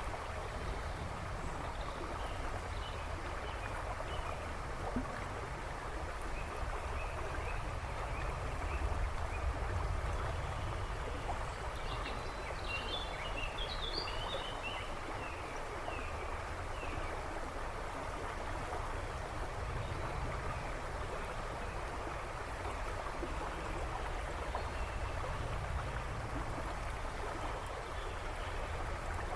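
A river babbling and rushing steadily over stones, with a low rumble underneath. Birds twitter faintly in the background, a brief cluster of chirps about halfway through.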